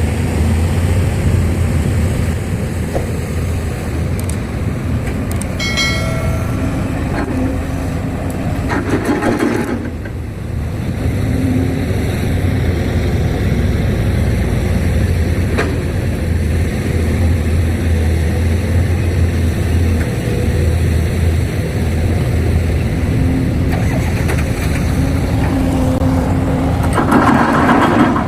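Diesel engines of a working excavator and a dump truck running steadily. A short high tone sounds about six seconds in, and brief louder rushes of noise come around nine seconds and again near the end.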